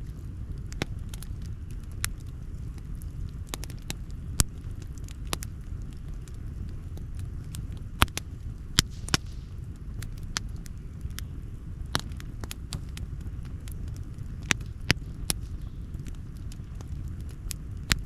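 Campfire burning and crackling: irregular sharp pops and snaps, a few much louder than the rest, over a steady low rumble.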